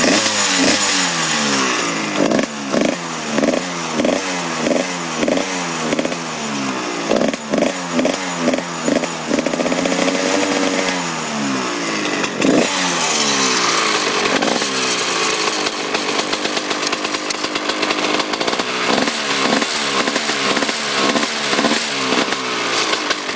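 1997 Honda CR125's two-stroke single-cylinder engine running with the throttle blipped again and again in quick rising revs, held up once about ten seconds in, then steadier for a few seconds before more blips near the end. A rattle comes from the loose side frame guards.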